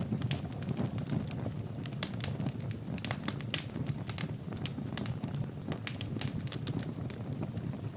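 Wood fire burning in a fireplace: a steady low roar of flames with frequent irregular crackles and sharp pops from the burning logs.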